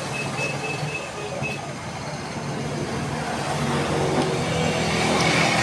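Steady mechanical noise with a low hum, slowly growing louder.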